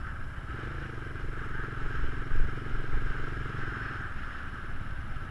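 Geon Scrambler 250 motorcycle's single-cylinder engine running with a steady, dense low rumble.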